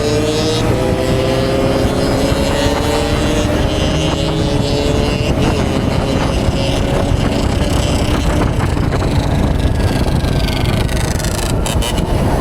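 Motorcycle engine pulling under acceleration, its note rising steadily in pitch over the first half, then running on at speed.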